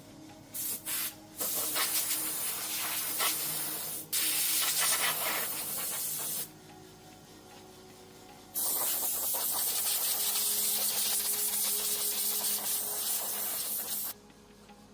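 A pressurised spray hissing in bursts: a few short squirts, then two long sprays several seconds each with a pause of about two seconds between them.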